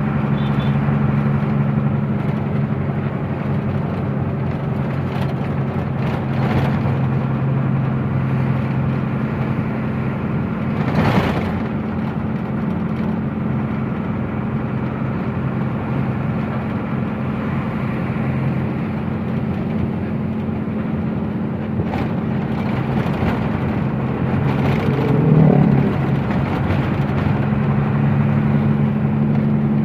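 Truck engine drone and road noise heard from inside the cab while driving, with a steady low hum that eases for a few seconds past the middle. There is a brief swell of noise, like a vehicle passing, about eleven seconds in, and a short louder sound about twenty-five seconds in.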